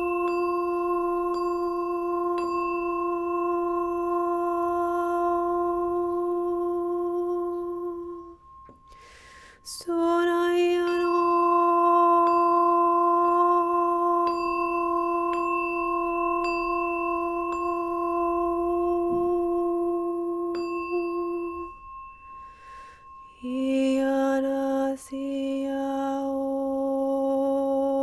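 Singing bowl ringing with a long, steady tone that breaks off about eight seconds in. It is struck again and sustains, fades out, and a second, lower-pitched bowl tone begins near the end.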